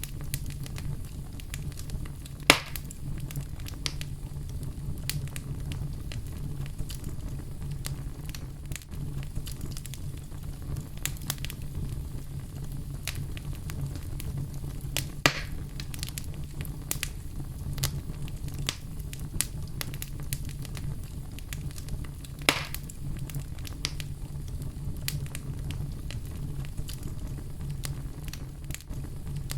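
Wood fire in a fireplace crackling, with frequent small pops over a steady low rumble of the flames, and a few louder pops, the loudest about two and a half seconds in.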